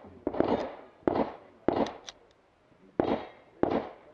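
Handgun shots, five at an irregular pace, each sharp crack trailing off in a short echo.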